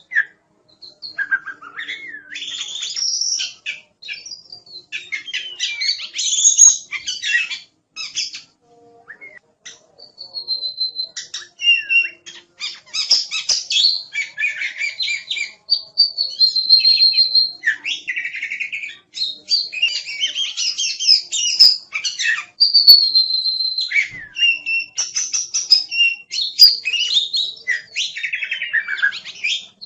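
Oriental magpie-robin (kacer) singing in full voice: a fast, varied run of whistles, slurred notes and harsher chatter, with a short lull about nine seconds in.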